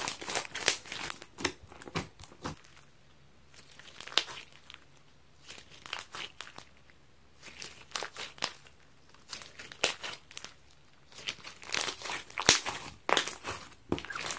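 High-elasticity sponge slime crackling and crinkling as it is squeezed and worked by hand, in irregular clusters of sharp clicks with a quieter stretch around three to five seconds in.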